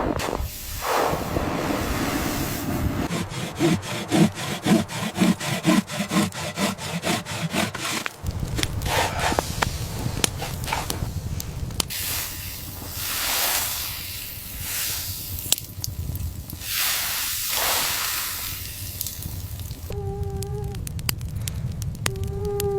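Rushing, hissing noise that swells and fades several times, after a fast run of regular crunching or clicking strokes a few seconds in. Near the end, canine howls begin as long, steady notes.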